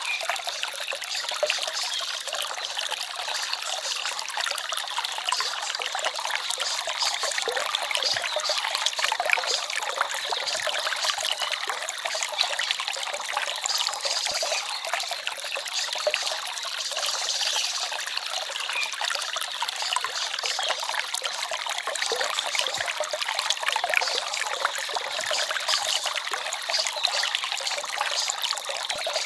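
Small forest stream trickling and babbling steadily over stones, a bright, even water sound with no deep rumble.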